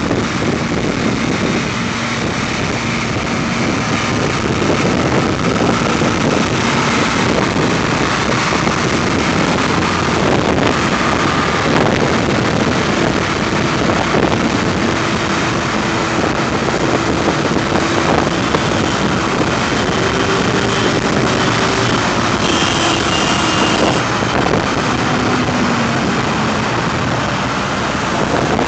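Vintage tractor engines running as the tractors drive off, a steady mechanical din with engine notes that drift up and down in pitch as machines go by.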